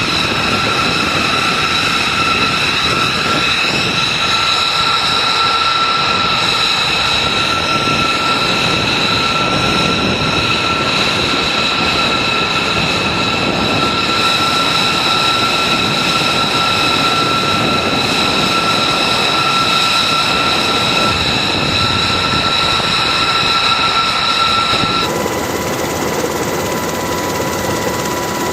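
B-2 Spirit stealth bomber's General Electric F118 turbofan engines running loud: a steady high whine over a broad rushing noise. About 25 seconds in the sound changes abruptly to a different, lower set of steady tones.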